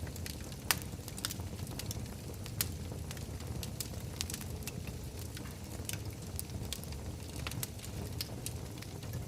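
Wood fire burning in a fireplace: a steady low rumble of flames with irregular sharp crackles and pops, two of them louder, near the start and a few seconds in.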